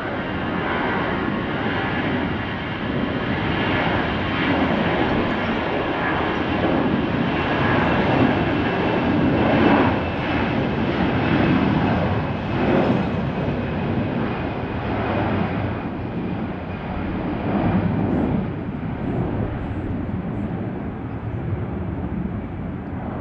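Airbus A320-214 jet engines (CFM56) running loud. A whining tone rides over a dense roar, and the whine fades in the second half.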